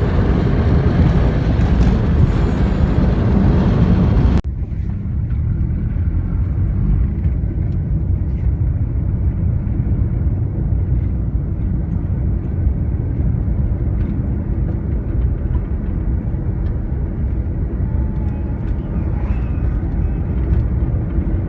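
Steady low rumble of a car driving, with a louder rushing noise on top for about the first four seconds that cuts off suddenly.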